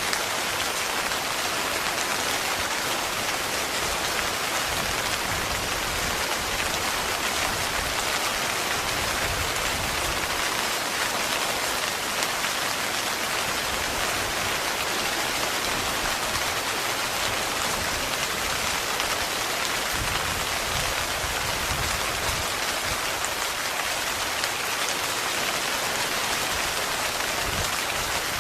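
Heavy, continuous rain drumming on a tent, an even, dense hiss without let-up.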